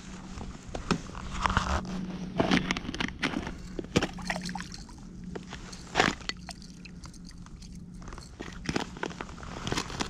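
Footsteps crunching in snow, coming irregularly with sharper crunches now and then, the strongest about six seconds in, over a faint steady low hum.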